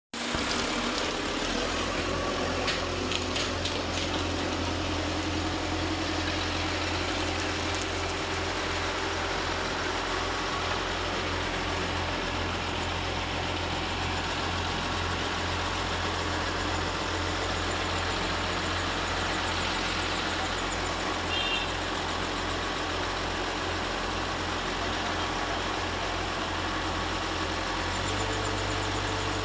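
Diesel engine of a ready-mix concrete truck running steadily, a low even hum that steps up slightly in speed near the end.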